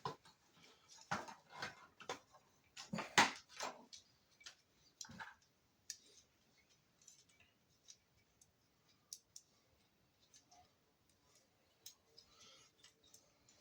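Small parts of a truck's speedometer cluster being handled on a bench: a run of clicks and light knocks in the first few seconds, then sparse faint ticks.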